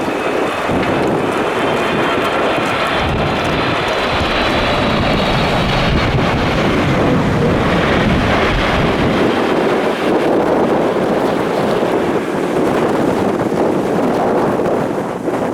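Boeing 777-300 airliner on final approach, with a steady jet engine rumble and a faint high whine over it. Strong gusty wind buffets the microphone.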